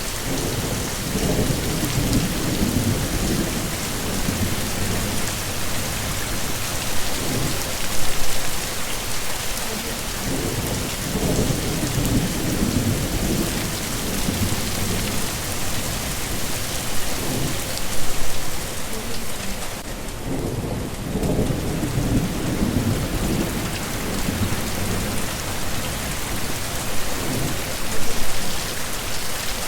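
Heavy rain falling steadily, with low thunder rumbling in and out beneath it. The loudest swells come about every ten seconds.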